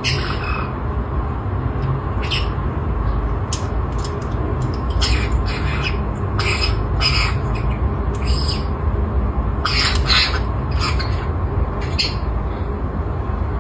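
Pet caique parrot giving short, scattered squawky chirps, a dozen or so at irregular intervals, over a steady low rumble.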